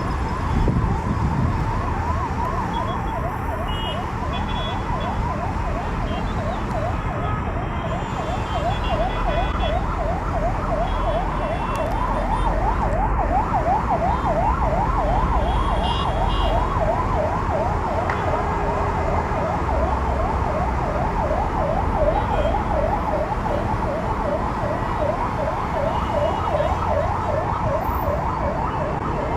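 Emergency vehicle siren in a fast yelp, its pitch sweeping up and down several times a second without a break, over a steady low rumble of traffic.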